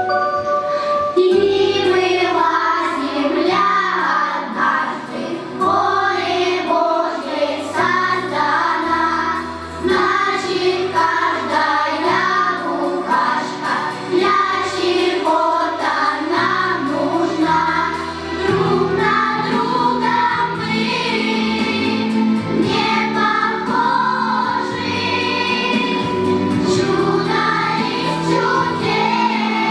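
A song sung by a choir of voices over instrumental accompaniment, with a bass line that changes note about once a second.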